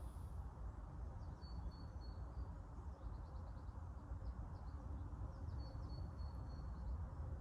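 A small bird calling in short, thin, high notes, in strings a few times with a quick run of chirps between, over a steady low outdoor rumble.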